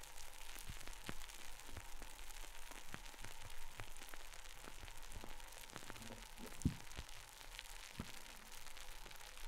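Carbonated light beer fizzing, a steady crackle of many tiny bubbles popping, with a soft knock about two thirds of the way through.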